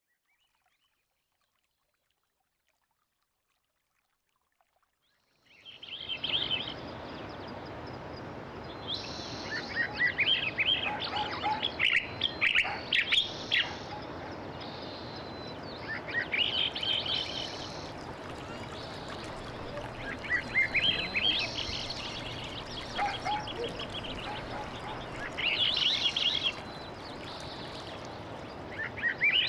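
Silence, then about five seconds in an outdoor ambience begins: songbirds singing short phrases of rising chirps every few seconds over an even background hiss.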